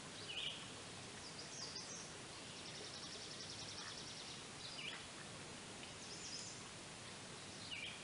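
Birds chirping over a steady faint hiss: short high chirps every second or two, and one rapid high trill about a second long a few seconds in.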